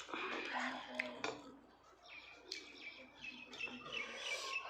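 Small birds chirping, a run of short high chirps repeated through the second half.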